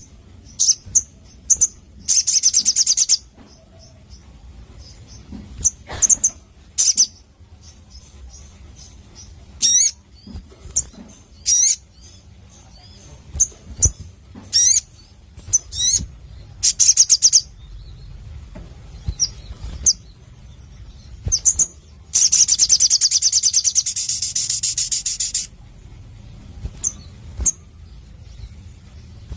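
A sogon (sogok ontong, a spiderhunter) singing loudly: sharp high chirps and quick slurred whistles, broken by rapid buzzing trills, the longest lasting about three seconds near the end.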